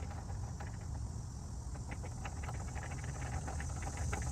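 Steady high-pitched insect chirring over a low rumble, with scattered light ticks.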